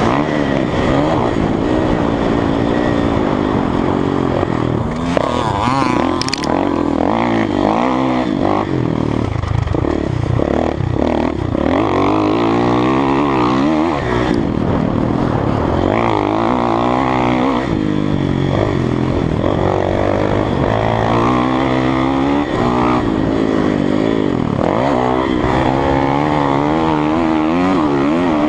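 Kawasaki KX450F four-stroke single-cylinder dirt bike engine revving hard while riding a motocross track, its pitch rising and falling repeatedly with throttle and gear changes.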